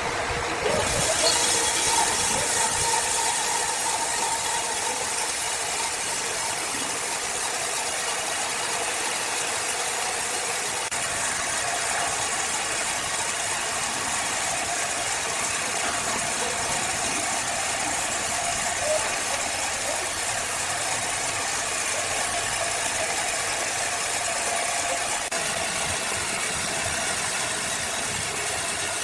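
Sawmill machinery running with a steady mechanical noise, the high hiss brightening about a second in.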